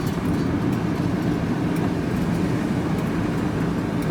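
Steady engine and road noise from a vehicle being driven, heard from inside the cab: an even low drone.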